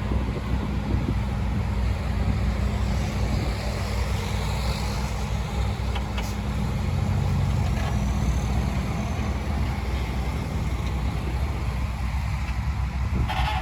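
Heavy diesel engine of construction machinery, a bulldozer or dump truck, running steadily with a deep low rumble.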